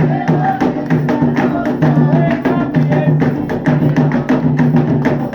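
Afro-Brazilian religious music from a Candomblé festival: hand drums and a sharp clicking percussion beat in a fast, steady rhythm, with curving melodic tones, likely a voice singing.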